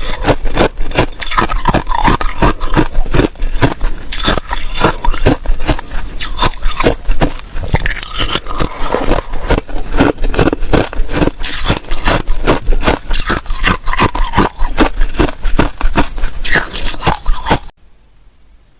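Hard ice cubes being bitten and chewed: loud, dense, rapid crunching and cracking that stops abruptly near the end.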